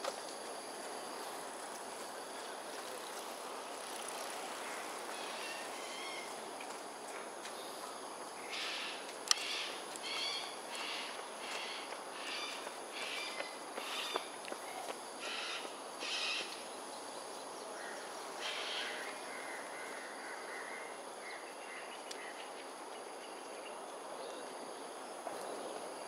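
A run of harsh bird calls, about a dozen short calls in quick succession from about eight seconds in, then a few more near the middle. They sound over a steady high insect drone. A single sharp click comes about nine seconds in.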